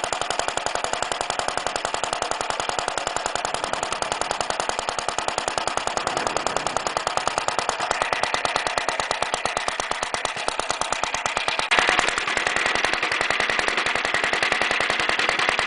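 Villiers Mk20 single-cylinder two-stroke stationary engine running at a fast, steady putter through a small Briggs & Stratton muffler fitted to its broken exhaust stub. Its governor is not hooked up, so the speed is held by hand. About twelve seconds in there is a knock, and the exhaust note turns a little sharper.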